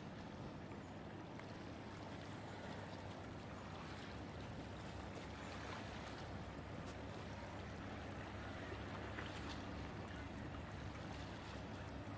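A distant approaching diesel-hauled passenger train: a faint, steady low engine rumble from the locomotives under an even outdoor hiss, growing slightly louder as it nears.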